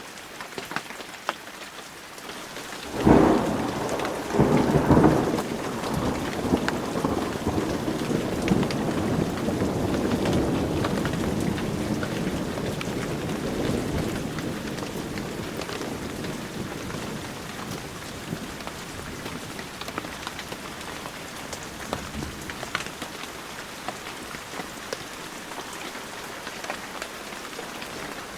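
Heavy rain falling steadily, with the sharp ticks of single drops. About three seconds in a clap of thunder breaks, with a second crack a second and a half later. Its rumble rolls on and fades away over the next ten seconds or so.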